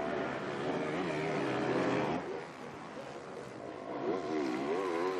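Motocross bikes racing: 450cc four-stroke engines revving up and down as the riders work the throttle. The engine sound dips about halfway through, then comes back.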